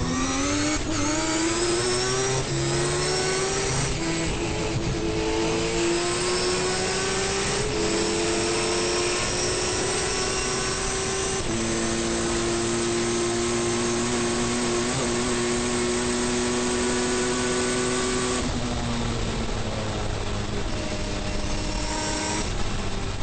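Turbocharged 20B three-rotor rotary engine of a 700 hp Mazda RX-7 race car, heard from inside the car, accelerating hard through several upshifts. It then holds high revs steadily for about seven seconds. About three-quarters of the way through the revs fall as the car slows, and they pick up again near the end.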